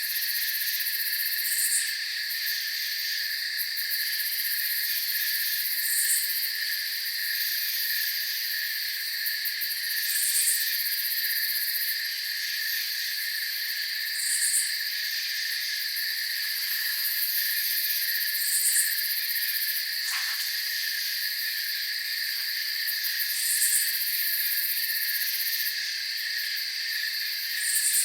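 Night chorus of crickets: a steady, layered high chirring, with a short higher call repeating about every four seconds.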